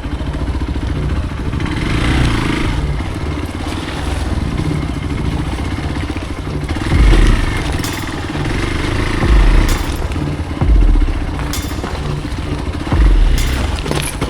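Hero Xpulse single-cylinder motorcycle engine running as the bike rides over rough off-road ground, with several heavy low thumps and a few sharp knocks along the way.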